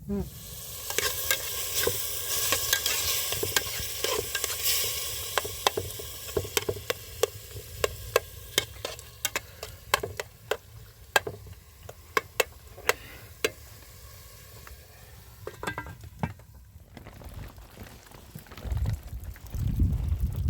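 Food sizzling in a hot pan while it is stirred, with a utensil clinking and scraping against the pan many times. The sizzle is strongest in the first few seconds, then dies down.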